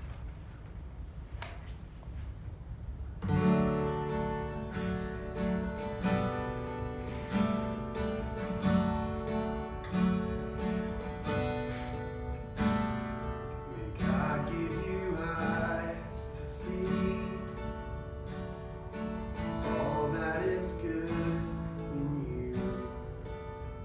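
Acoustic guitar strumming chords in a steady rhythm, starting about three seconds in: the opening of a worship song.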